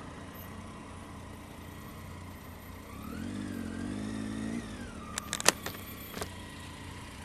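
A motor vehicle's engine running steadily, revved up briefly about three seconds in and then falling back to idle. A few sharp clicks come near the end.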